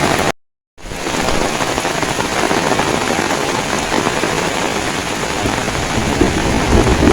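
Heavy rain pouring down, with strong wind buffeting the microphone as a low rumble. The sound cuts out completely for about half a second near the start, then returns.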